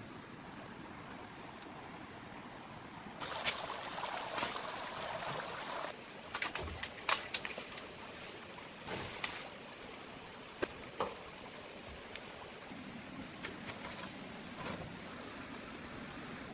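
Steady rush of flowing water, with a louder stretch of rustling or splashing a few seconds in and then a series of sharp knocks and clanks.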